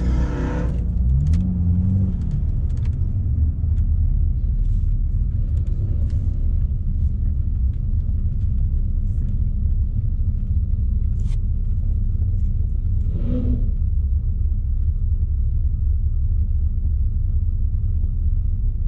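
Car engine idling with a steady low rumble, with a brief rise and fall in pitch about two seconds in.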